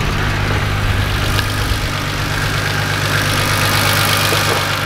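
Car engine idling steadily, with a couple of light clicks.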